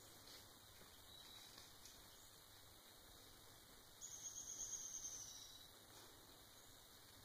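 A small bird's single high, thin trill, about a second and a half long, starting about four seconds in, with a fainter short high note earlier. Otherwise near silence.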